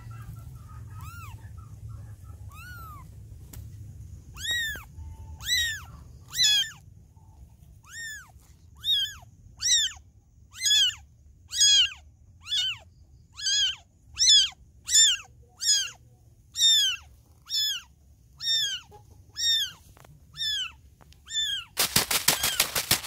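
Newborn kitten mewing over and over, a string of high, thin cries that each rise and fall in pitch, about one a second, growing louder after the first few seconds. A brief burst of rustling noise comes near the end.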